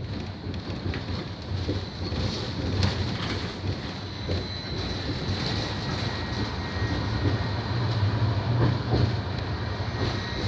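City tram running along its rails, a steady low rumble with a thin steady electric whine from the traction motors and occasional light clicks of the wheels.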